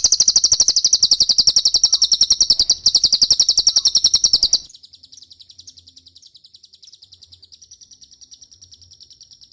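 Cililin song: a fast, even trill of high chirps, about ten a second, loud through the first half, then continuing more quietly until it stops near the end.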